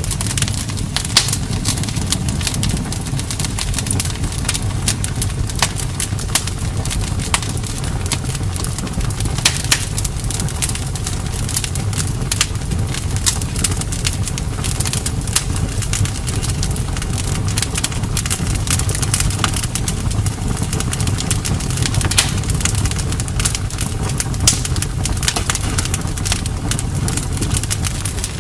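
Campfire burning: a steady low rumble with frequent, irregular sharp crackles and pops from the burning wood.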